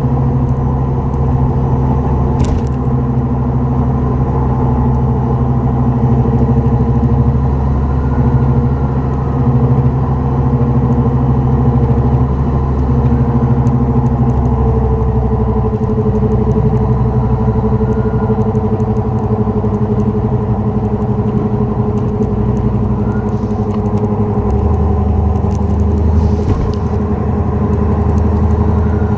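Steady low drone and hum from a moving 2004 Dodge Neon SRT-4, the grinding, droning noise of a bad wheel bearing.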